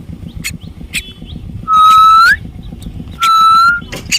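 Common myna giving two loud, whistled calls of about half a second each, each bending upward at the end, after two short clicks.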